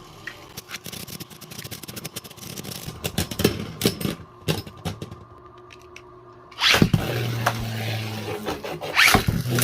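Two Beyblade Burst tops spinning and clashing in a plastic stadium: a run of sharp clicking hits, a short quieter spell, then a loud clash about seven seconds in, followed by a steady low hum and further hits.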